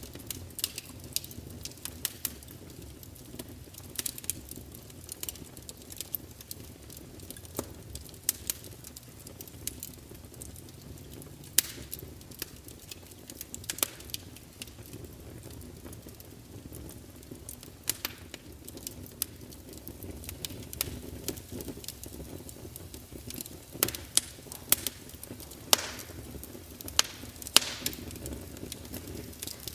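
Wood fire burning: irregular sharp crackles and pops over a steady low rumbling hiss of flames.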